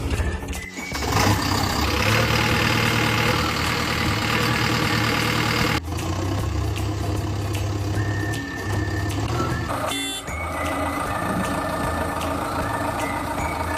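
Heavy vehicle engine running steadily, with a few short high beeps like a reversing alarm. The sound breaks off sharply about six seconds in and carries on.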